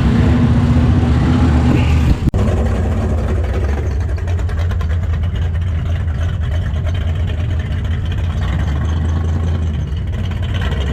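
A car engine idling with a steady low rumble, briefly cut off about two seconds in.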